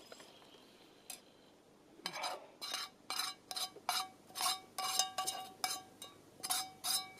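A metal utensil stirring and scraping food in a metal pan, clinking against it in a quick run of strokes from about two seconds in, each stroke ringing briefly.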